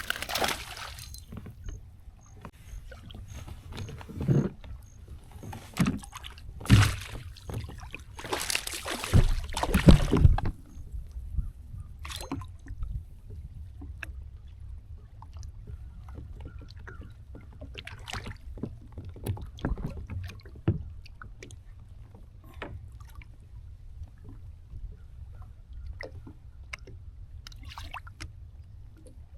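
Knocks, clicks and a few louder splashing bursts from a fishing kayak and its gear on the water, over a steady low rumble; the loudest bursts come in the first ten seconds or so.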